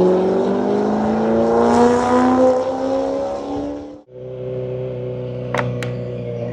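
Kawasaki Ninja ZX-4RR's inline-four engine accelerating, its pitch rising steadily for about four seconds. After an abrupt cut it runs at a steady pitch, with a few sharp clicks near the end.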